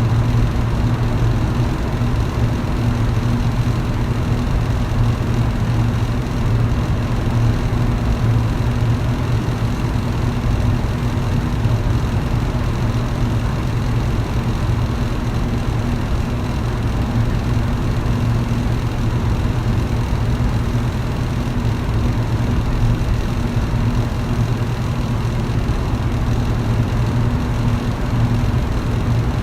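Electric fan running steadily: a low motor hum, with a fainter hum an octave above, over an even rush of air.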